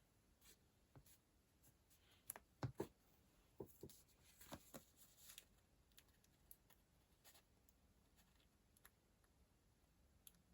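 Faint taps and clicks of a paper planner and stationery being handled on a desk, bunched from about two to five seconds in with the loudest pair near three seconds, then only a few soft ticks over near silence.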